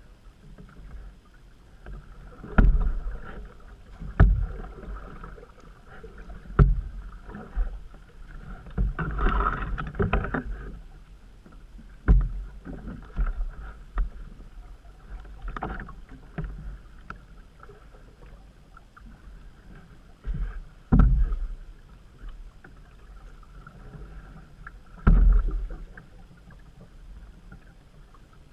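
Canoe being paddled along a creek: a steady wash of moving water, broken by irregular low thumps from the paddle and hull, with a longer splashing surge about a third of the way through.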